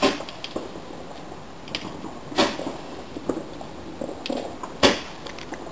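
Fireworks going off: a few sharp bangs, the loudest at the start, about halfway through and near the end, with smaller pops between.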